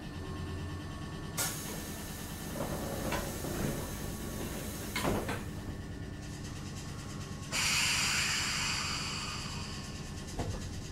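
Kotoden 1070 series electric train car standing with a steady low hum, a few sharp knocks and clunks, then a sudden burst of compressed-air hiss about seven and a half seconds in that fades away over about two seconds.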